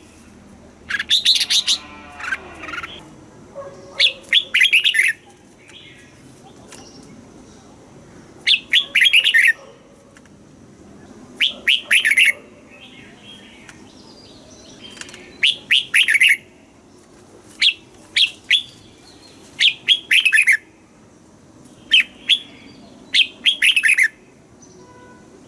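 Red-whiskered bulbul singing: short, bright phrases of quick warbled notes, each about a second long, repeated every few seconds.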